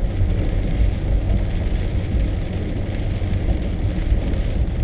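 Steady road and engine noise of a car being driven, heard from inside the cabin: an even low rumble with a fainter hiss above it.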